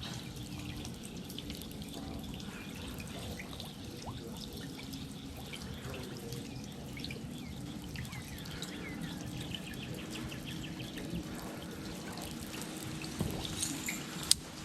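Water dripping and trickling, many small drips over a steady wash, with a faint low hum underneath. A single sharp click near the end.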